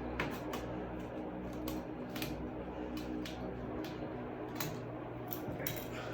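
Duct tape being cut with scissors and pressed down: short, irregular crisp snips and crackles, over a steady low hum.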